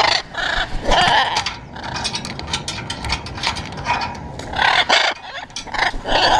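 Blue-and-yellow macaws squawking: several loud, harsh calls, a pair in the first second and three more in the last two seconds, with short clicks in between.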